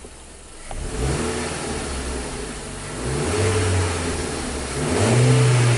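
2019 Kia Rio engine revved up from idle several times, the last rev the loudest, near the end. This is a free-rev test while live misfire data is watched for an intermittent misfire.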